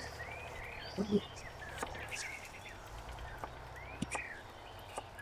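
Birds chirping outdoors: short arched calls repeating every half second or so, over a low steady background. A few sharp clicks, and a brief low sound about a second in.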